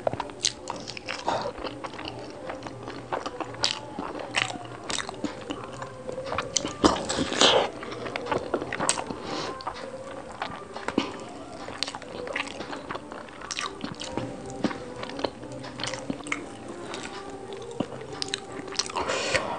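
Close-miked biting and chewing of soft, syrupy gulab jamun, with wet mouth smacks and sharp clicks throughout and a louder stretch about seven seconds in.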